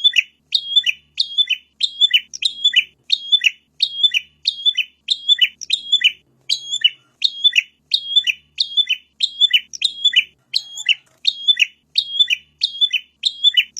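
Prinia (prenjak) calling: one short, sharp chirp repeated evenly, about three every two seconds.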